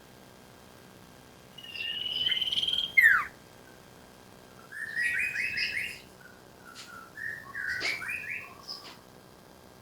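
Iora (sirtu) song: a short trill ending in a sharp downslurred whistle, the loudest note, about three seconds in. Two quick stuttering runs of chirps follow over the next several seconds.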